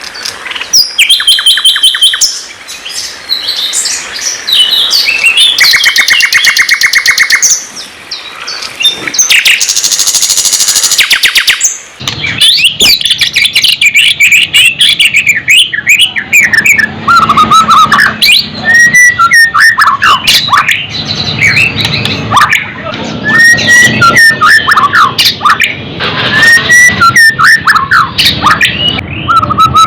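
Songbirds singing: fast high trills and chirps, then about twelve seconds in the sound changes to a different recording with a low background hum and a stream of varied whistled phrases.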